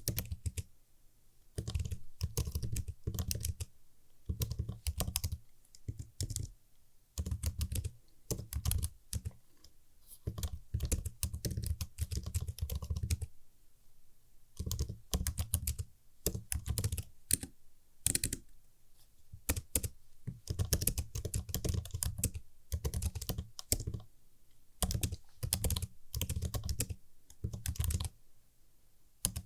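Typing on a computer keyboard: crisp key clicks in bursts of a few seconds with short pauses between them.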